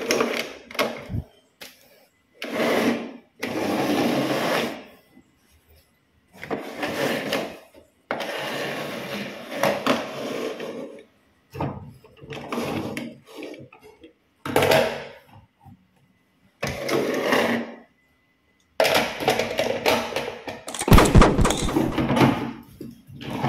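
Small battery-powered toy train motors whirring in a series of short bursts that stop abruptly, with plastic clattering.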